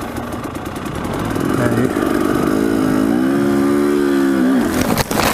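Dirt bike engine running under throttle, revving up about two and a half seconds in, holding high for a couple of seconds and then dropping back. A few sharp clicks or knocks come near the end.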